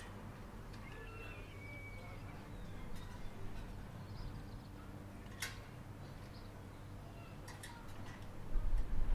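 Quiet outdoor ambience with a few faint bird chirps and a steady low hum, a single sharp click about halfway through, and a low rumble coming up near the end.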